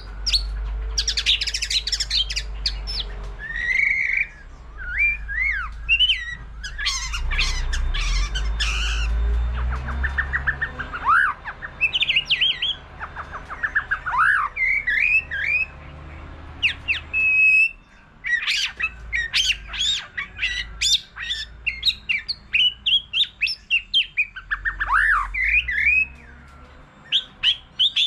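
White-rumped shama singing a varied, many-voiced song of whistled glides, rapid trills and harsh notes, phrase after phrase with short gaps. A low rumble sits under the song through the first half.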